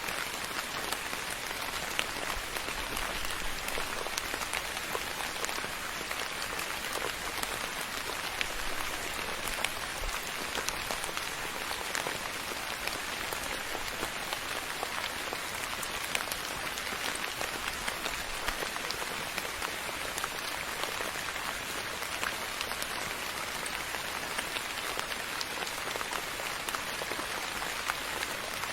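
Steady soft rain falling on a surface, an even hiss with many small drop ticks.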